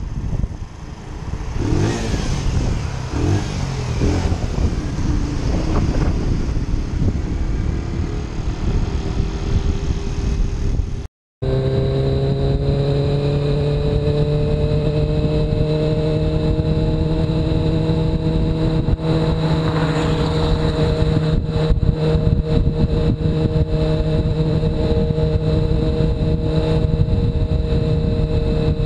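Motorcycle riding sounds from a rider-mounted camera: wind rush over the engine at first, then after a short cut about 11 seconds in, a steady engine drone whose pitch rises a little and then holds at cruising speed.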